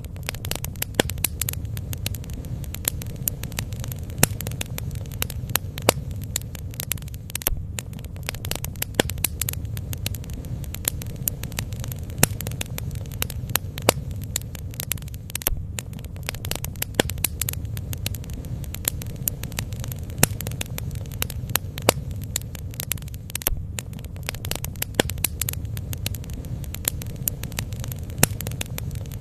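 Bonfire burning: a steady low rumble of flames with frequent irregular crackles and sharp pops of burning wood.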